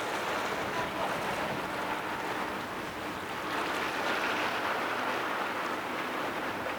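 A passing car ferry's engine running with a steady low hum, under a constant wash of water and wind on the microphone.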